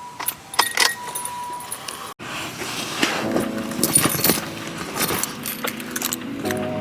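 Keys jangling and clinking, with scattered sharp clicks; the sound breaks off abruptly about two seconds in, then the jangling resumes more densely.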